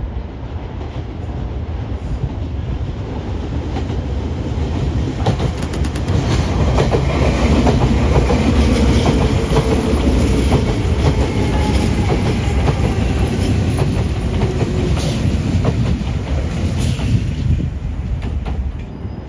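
Nankai 6200 series electric train running past, its rumble swelling to a peak about halfway through and then easing off. The clack of wheels over rail joints repeats from about five seconds in until near the end.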